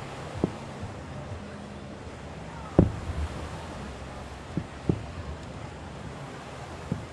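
Fireworks shells bursting at a distance, about five bangs with a low rumble after each, the loudest about three seconds in, over a steady wash of ocean surf and wind.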